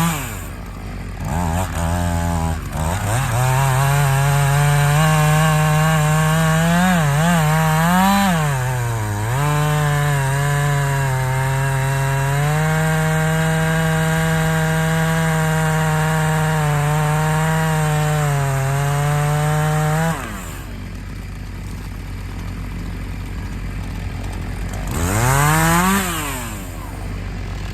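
Two-stroke chainsaw at full throttle cutting through a tree, its pitch dipping as the chain loads in the cut. About twenty seconds in it drops to idle, with one brief rev near the end.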